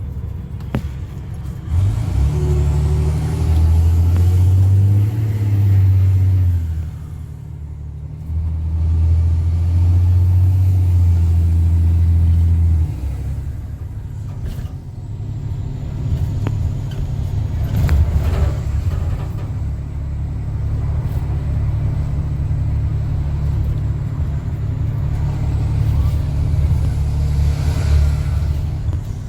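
Straight-piped Cummins C8.3 diesel of a school bus running under load, with a deep exhaust drone. It pulls hard twice in the first half, easing off briefly between the two pulls. It then settles into a steadier, somewhat quieter run.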